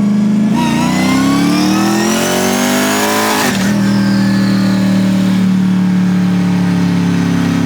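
Twin-turbo 6.2-litre Ford Raptor V8 in a Crown Victoria pulling through a gear, its pitch climbing for about three seconds. It then drops sharply at a clutchless upshift under ignition cut and runs steady afterwards. The shift worked, but the cut held on too long.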